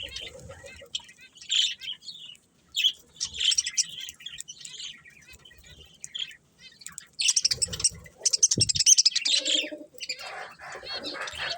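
Budgerigars chirping in bursts of quick, high chatter with short pauses between. The loudest, densest burst comes about two thirds of the way through, along with a brief low thump.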